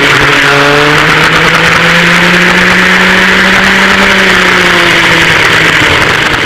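Engines of a vintage dual rear-engine kart running loud, heard onboard, the pitch rising a little and then easing off. The sound begins to fade near the end.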